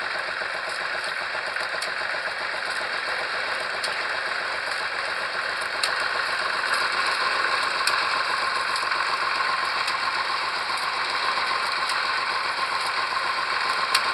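Engine of a pile-driving rig running steadily with a rattle, getting a little louder about six seconds in.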